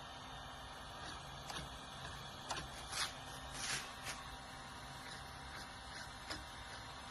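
Faint steady room hum with scattered light clicks and a couple of soft rustles about three seconds in.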